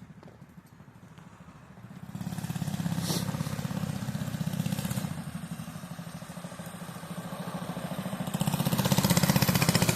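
Mini bike's small single-cylinder engine running with rapid, even firing pulses, fitted with a PZ19 round-slide carburetor. It comes up loud about two seconds in, eases in the middle, then grows louder again near the end as the bike rides closer.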